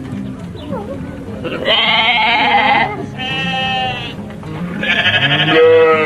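An animal bleating three times in loud, wavering calls, the last one the longest, over background music.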